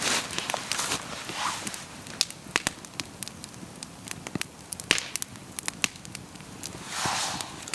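Wood campfire crackling, with sharp irregular pops and snaps, and short swells of rushing hiss near the start and again about seven seconds in.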